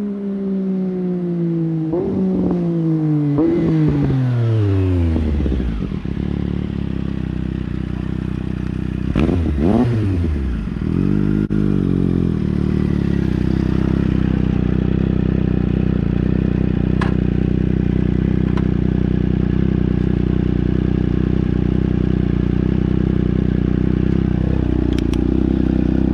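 Triumph Daytona Moto2's three-cylinder engine running through a link pipe with the muffler removed. It goes by with its pitch falling as it slows, crackling on the overrun. About nine seconds in the pitch briefly dips and rises, then the engine settles into a steady idle.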